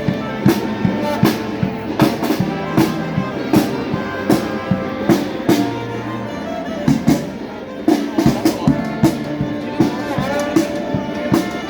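A charanga street band playing a lively tune: brass horns carrying the melody over a bass drum and drum kit that keep a steady beat.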